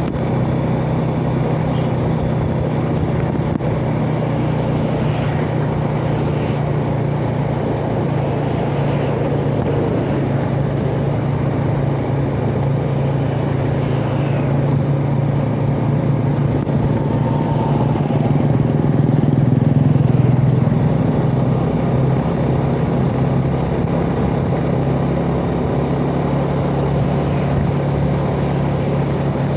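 Yamaha Jupiter Z underbone motorcycle's single-cylinder four-stroke engine running steadily under way, heard from a chest-mounted phone together with road and wind noise. It grows a little louder for a few seconds around twenty seconds in.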